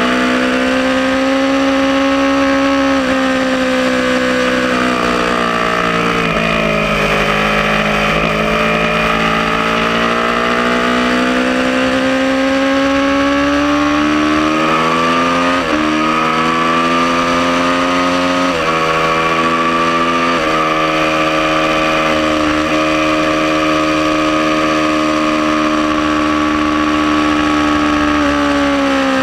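Aprilia Tuono sport motorcycle engine running hard on a track, heard from onboard. The pitch holds high, falls as the bike slows, then climbs again with a few quick pitch jumps in the middle before holding steady at speed and dropping right at the end.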